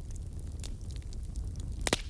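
Campfire crackling: scattered sharp pops over a steady low rumble, with a louder cluster of cracks near the end.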